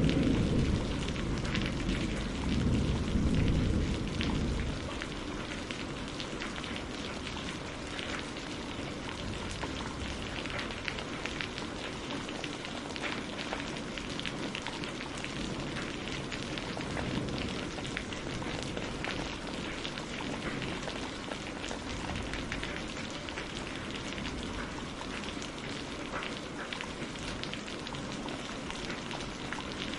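Steady rain with fine drops pattering throughout. A low rumble of thunder dies away over the first four seconds or so.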